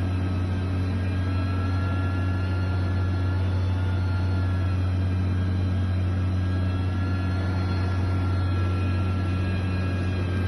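Engine of heavy construction machinery running at a steady speed: a constant low drone with faint higher whining tones over it.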